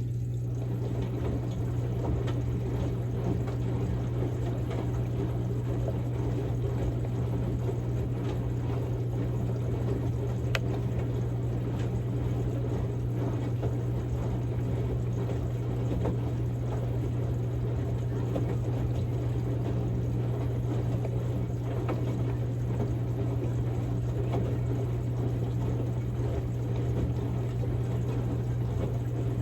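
Samsung Grande front-loading washing machine on its quick-wash cycle: water sloshing and splashing in the turning drum over a steady low hum.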